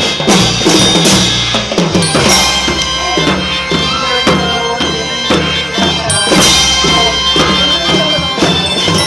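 Kindergarten children's marching band playing: drums beating a steady march rhythm under held melody notes.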